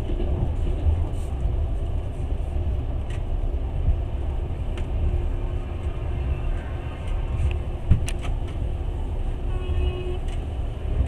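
Passenger train running along the rails, heard from inside the carriage: a steady low rumble of wheels on track, with a few sharp clacks.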